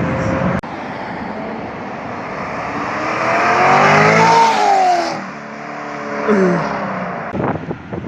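American V8 sports car engine revving, its pitch and loudness climbing to a peak about four seconds in and then falling away, with a second short falling rev about six seconds in.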